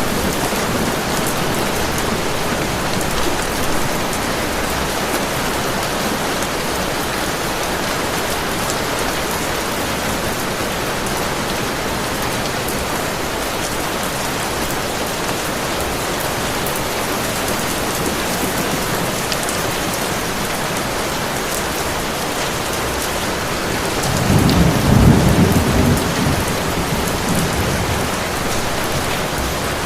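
Heavy rain falling in a steady hiss, with a low roll of thunder swelling for a few seconds near the end.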